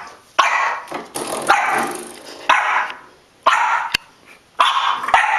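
A puppy barking repeatedly, about one sharp bark a second, each trailing off quickly, with a single sharp click a little before the end.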